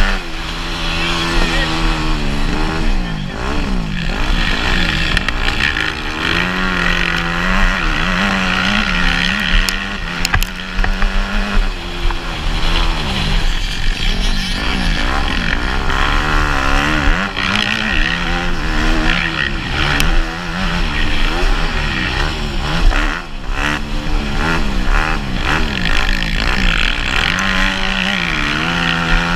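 Motocross dirt bike engines racing, revving up and dropping back again and again as the riders open and close the throttle and shift.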